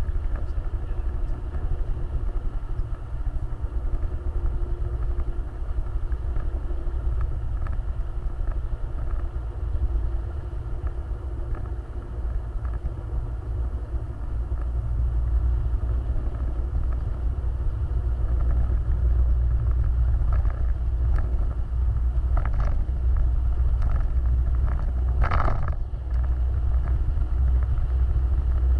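Off-road vehicle engine running steadily with a deep, continuous low rumble as it drives. Two brief sharp sounds cut in near the end.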